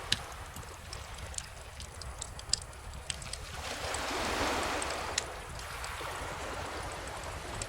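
Wood bonfire crackling with sharp pops scattered throughout, over calm ocean waves washing ashore, one wave swelling and fading about halfway through.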